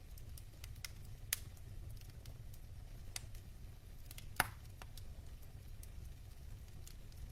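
Logs burning in a fireplace: scattered crackles over a low steady rumble, with two sharper pops, one about a second in and the loudest a little past the middle.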